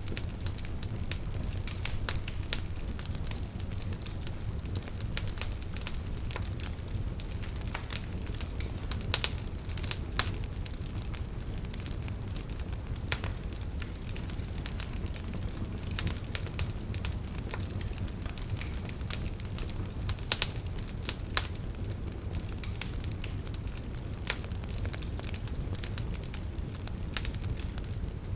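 Wood fire burning in a fireplace: a steady low rumble of flame with frequent irregular crackles and snaps, a few louder pops among them.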